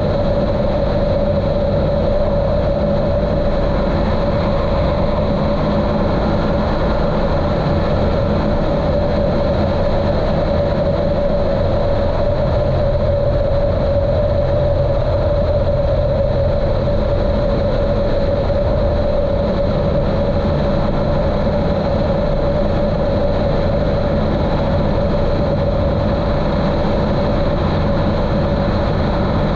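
Continental O-200 engine and propeller of a Cessna 150L running steadily in cruise, heard muffled through a GoPro's waterproof case, with a strong steady drone and a deep low rumble.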